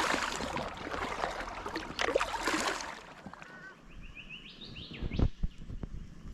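Water splashing around a kayak for the first few seconds. Then a bird calls with a quick run of high chirps, and there is a single knock about five seconds in.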